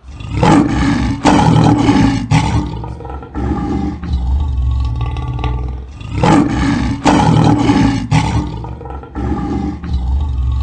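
Tiger roaring: a run of deep, loud roars and growls, coming in two similar bouts, the second beginning about six seconds in.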